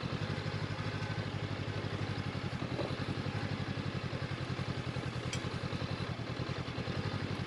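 Honda CB500X's parallel-twin engine running at low revs with a steady, even pulse as the motorcycle rolls slowly over rough off-road ground.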